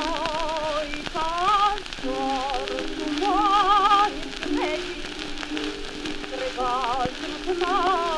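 Old acoustic gramophone recording of a Gypsy romance: a voice singing with a wide vibrato in short phrases, over the constant crackle and hiss of the worn record surface.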